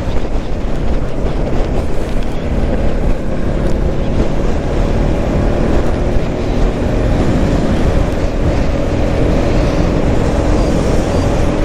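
Motorcycle riding at road speed: wind rushing over the microphone with the bike's engine running steadily underneath, its note a little clearer in the second half.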